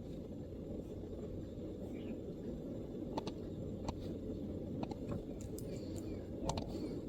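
MacBook keyboard keys tapped sparsely, single soft clicks spaced irregularly about a second apart, over a steady low background rumble.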